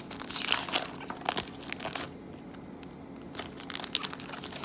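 A hockey card pack's wrapper being torn open and crinkled. The crackling is loudest in the first second or so, then thins to lighter rustles and clicks.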